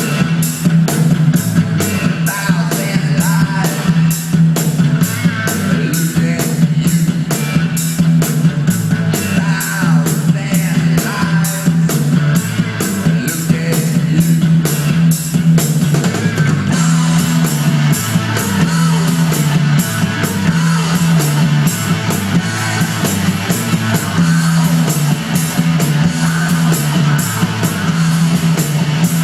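Rock music with electric guitar, drum kit and singing, played through Edifier R1000TCN computer speakers, with a strong bass line under a steady drum beat.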